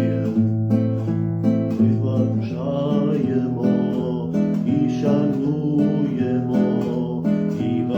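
Acoustic guitar strummed in a steady rhythm, an instrumental break between verses of a Ukrainian birthday song.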